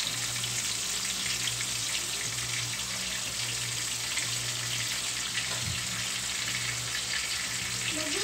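Pork chop frying in a pan: a steady sizzle with scattered small crackles, over a steady low hum.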